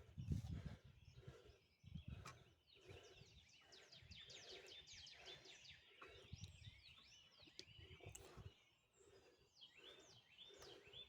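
Faint chorus of birds chirping, with fast runs of short, high, falling chirps, and a couple of low thumps in the first two seconds.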